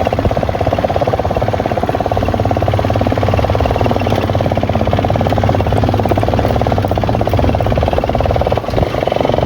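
Motorcycle engine running steadily, its firing pulses even throughout, with a brief dip in level near the end.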